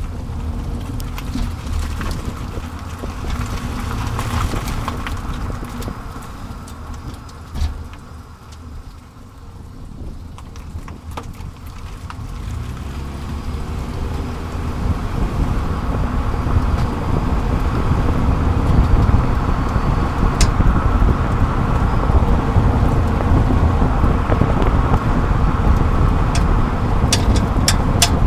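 Tyre and road noise with wind rush from a 30-series Toyota Prius being driven. It eases off about eight seconds in, then grows louder and stays up as speed builds. Scattered sharp clicks, several close together near the end, are heard over it.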